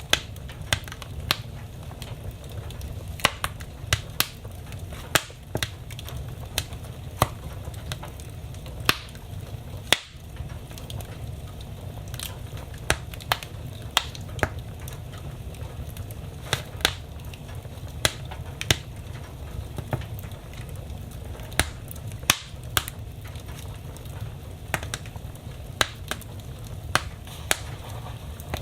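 Wood fire burning in a fireplace, crackling with sharp, irregular pops about once or twice a second over a steady low rumble.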